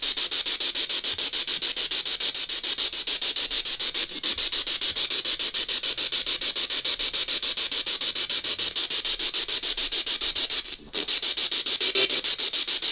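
Spirit box radio scanner sweeping through stations: a steady hiss of static chopped into rapid, even pulses, with a brief drop-out near the end.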